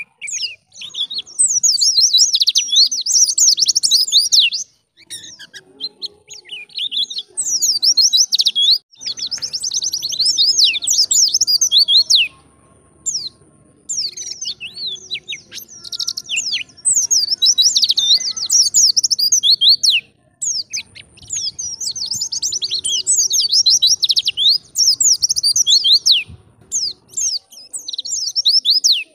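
White-eye (pleci) singing a fast, high-pitched twittering warble in long phrases of several seconds, with short pauses between them.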